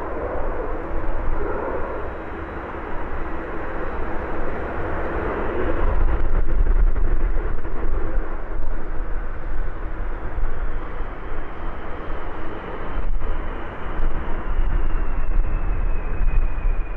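Jet engines of a Boeing 747-400 freighter: a loud, steady rush that grows louder about six seconds in, with a thin high whine that slides down in pitch in the second half.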